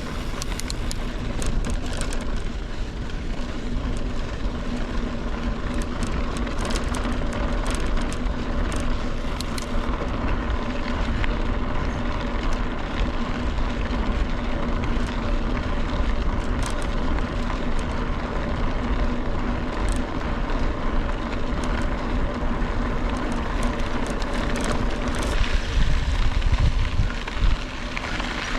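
Wind rushing over the microphone and mountain bike tyres rolling on a dusty dirt road, with scattered clicks and rattles from gravel and the bike. A steady low hum runs underneath.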